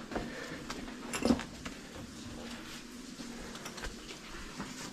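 Boots and gear scuffing and knocking on cave rock as someone steps carefully over an obstacle, in irregular small clicks and scrapes, with a louder knock about a second in.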